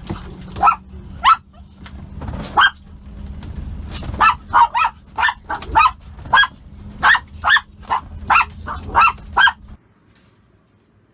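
Dog barking and yelping excitedly, about fifteen short high barks that come faster from a third of the way in, over a steady low hum. It all cuts off suddenly near the end.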